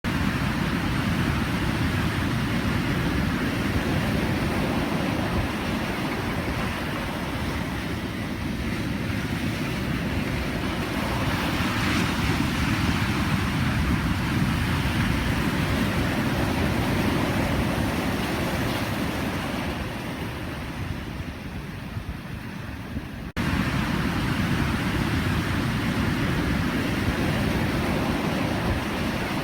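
Ocean surf: waves breaking and washing in as a continuous rush of noise that swells and eases. About 23 seconds in, the sound jumps suddenly back up to full level, as at an edit.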